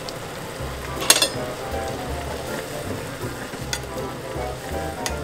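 Instant stir-fried noodles sizzling in a small pot on a gas burner while seasoning powder is shaken in and the noodles are stirred with tongs, with a sharp clink about a second in.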